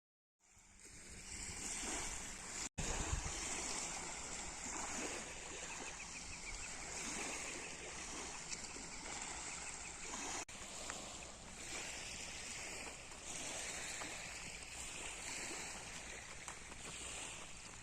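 Outdoor ambience: steady wind-like noise with a higher hiss over it. It fades in at the start and cuts out abruptly twice, briefly near the start and for an instant about ten seconds in.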